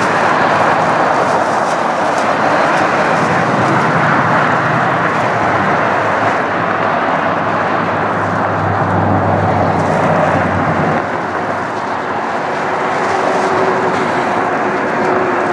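Steady, loud rushing roar of a Boeing 737-500 jet's turbofan engines. A steady low hum sits under it in the middle, and a steady tone comes in near the end.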